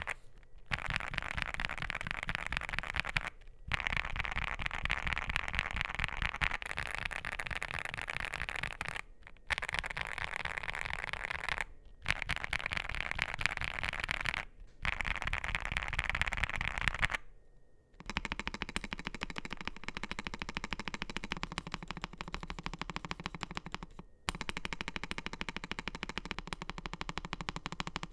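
Fast typing on a NuPhy GEM80 mechanical keyboard with NuPhy Raspberry switches and PBT mSA keycaps: a dense run of key clacks, broken now and then by brief pauses. About two-thirds of the way in, after a short gap, the typing turns less bright in tone.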